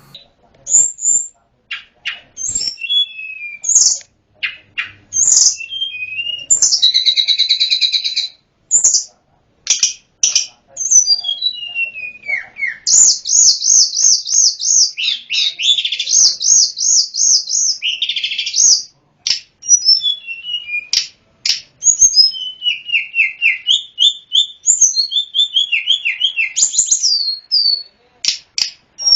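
A tledekan gunung (sulingan gunung) songbird singing a varied full song of sharp whistled notes, falling slurs and fast trills, with a rapid run of repeated notes in the middle.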